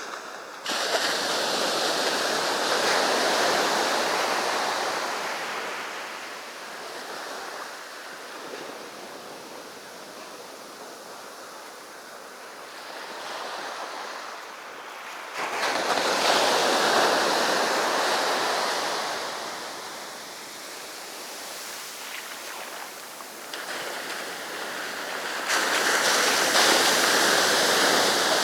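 Sea waves breaking on a beach. The surf swells sharply three times, about a second in, around the middle and near the end, and eases off between the breakers.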